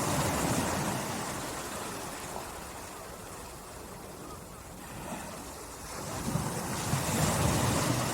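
Small, calm sea waves lapping on a beach: a wash fades over the first few seconds, then another swells in about six seconds in.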